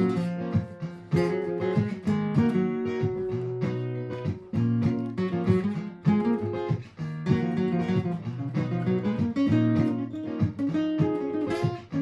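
Martin GPCPA4 acoustic guitar playing continuous strummed chords and picked notes, layered over a repeating loop from a Donner Triple Looper pedal.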